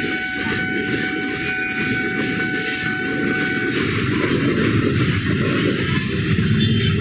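A train passing over a level crossing, the wheels rattling on the rails, with a steady high tone over it that cuts off about four seconds in.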